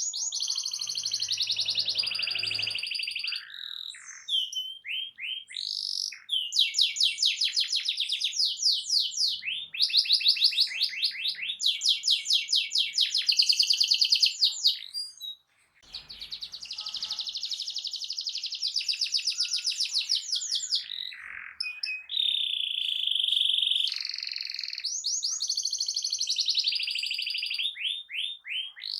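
Canary singing loudly in long, fast rolling trills, one after another, with a short break halfway through and one clear held note about three-quarters of the way in.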